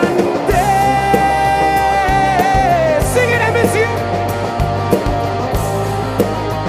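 Live rock band playing, with drums, bass and a long held melodic note from about half a second in that falls away at about three seconds.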